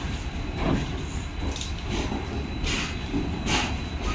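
ICF passenger coaches of a departing express rolling past, their wheels clacking over rail joints about once a second over a steady low rumble.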